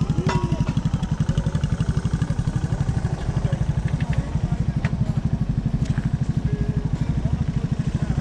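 An engine running steadily nearby with a fast, even low throb that does not change, with a few faint clicks over it.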